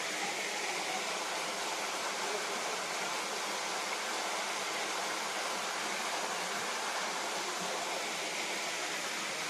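Waterfall with water pouring steadily, a constant, even rushing.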